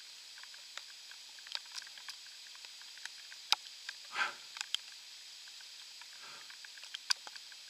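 Rain dripping in woodland: scattered drops tick irregularly against a steady light hiss, with a brief rustling swish about four seconds in.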